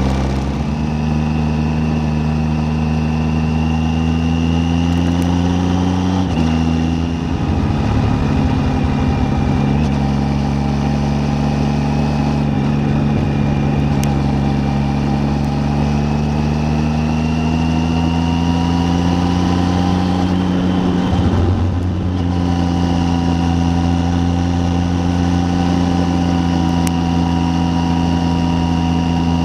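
Triumph Tiger 800's three-cylinder engine running under way. Its pitch climbs slowly, then drops suddenly about six seconds in and again about twenty-one seconds in.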